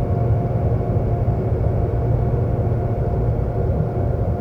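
Seoul subway train running: a steady, even rumble with a faint steady whine on top.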